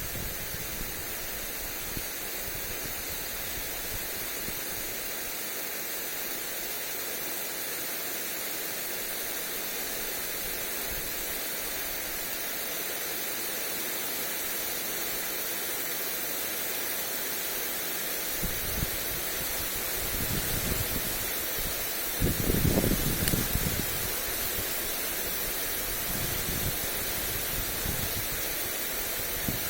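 Lawn sprinkler spraying water over grass, a steady hiss, with wind buffeting the microphone in low rumbling gusts about two-thirds of the way through.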